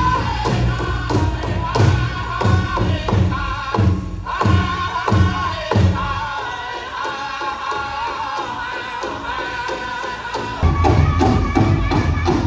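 Powwow drum group: a large hand drum struck in a steady beat under group singing. The drumbeat drops out about six seconds in while the singing carries on, then comes back in louder near the end.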